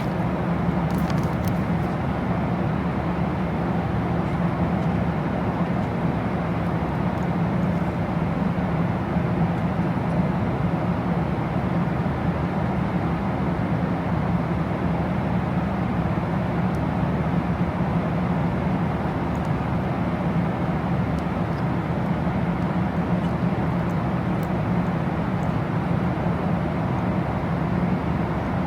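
Steady low drone inside a moving vehicle's cabin, even and unbroken throughout.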